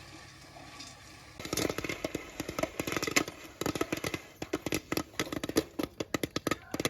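Popcorn kernels popping inside a Whirley Pop popper, starting about a second and a half in and quickly becoming a dense, irregular crackle of pops.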